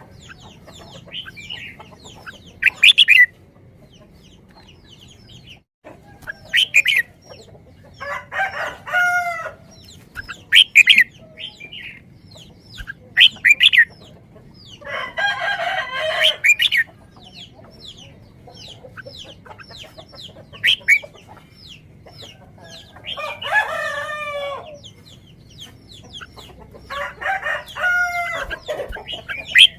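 Birds calling: four long calls with several harmonics, each a second and a half to two seconds long, among short sharp high chirps.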